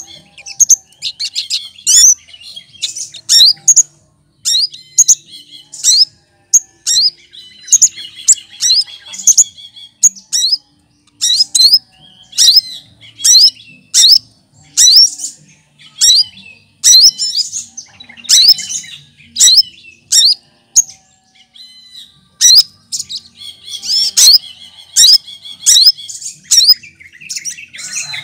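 Cucak kinoy, a leafbird, singing loudly: a run of short phrases of sharp rising whistles and chattering notes, with brief pauses between them, a song that mixes in imitations of other birds.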